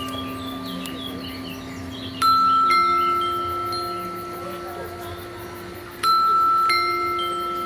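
Bell-like chime tones, struck twice about four seconds apart, each stroke sounding several notes together that ring on and fade slowly.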